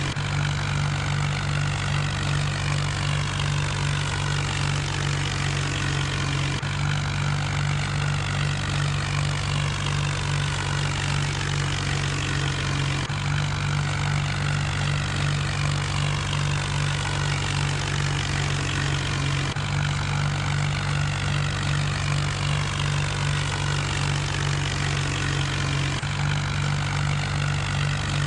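John Deere tractor engine running steadily, with a small jump in the sound about every six and a half seconds.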